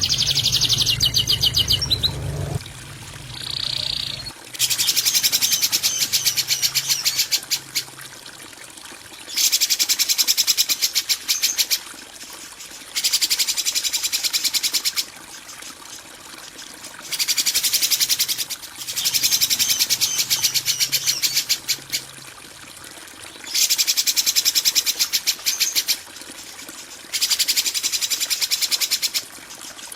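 Masteran kasaran bird-training recording: a harsh, high, very rapid buzzing trill of chirps, repeated in bursts of two to four seconds with short pauses between them.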